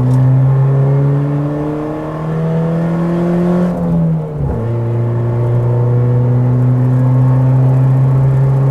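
Car engine pulling steadily up through the revs for about four seconds, then dropping sharply in pitch a little after four seconds in and running on at an even pitch.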